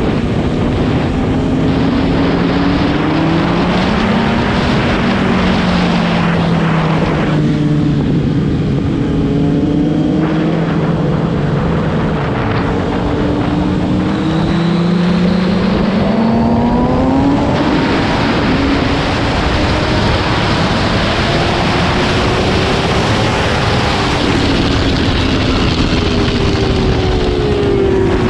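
Motorcycle engine at speed on a race track, its pitch climbing and dropping again and again as the rider accelerates, shifts and slows for corners, over a constant rushing noise.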